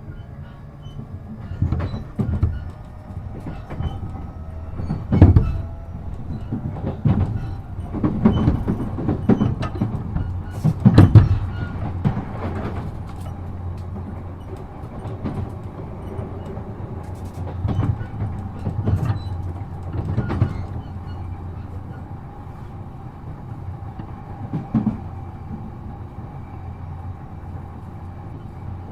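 E233 series 7000-subseries electric train running between stations, heard from on board: a constant low rumble with irregular clacks as the wheels cross rail joints, loudest about 5 and 11 seconds in. A steady high hum carries on under the rumble, and the clacks thin out in the last few seconds.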